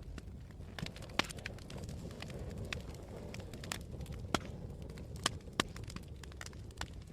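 Campfire burning: irregular sharp crackles and pops from the wood, the loudest about a second in, over a steady low rumble.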